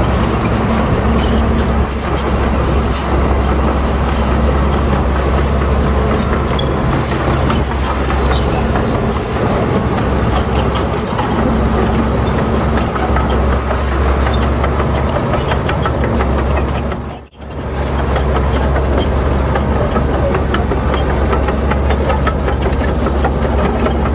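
Heavy diesel earthmoving machinery running steadily under load, a deep engine drone with many small metallic clanks and rattles. The sound cuts out abruptly for an instant about two-thirds of the way through, then carries on.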